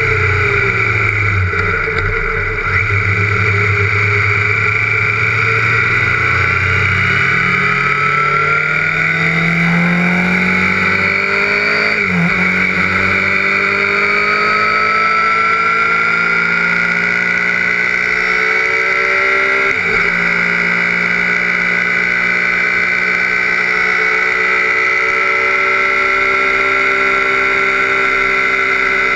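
Sportbike engine heard from an onboard camera while riding: the revs dip over the first few seconds, then climb steadily, with quick upshifts about 12 and 20 seconds in, after each of which the pitch drops and rises again.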